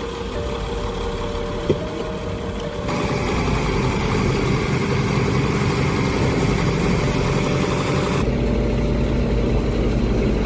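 Heavy machinery engine running steadily, with one sharp knock about two seconds in; the engine sound changes abruptly twice, about three and eight seconds in.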